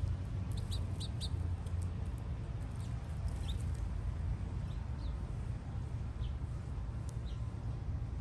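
Small birds chirping: a quick run of short, high chirps about a second in, then single chirps every second or so, over a steady low rumble.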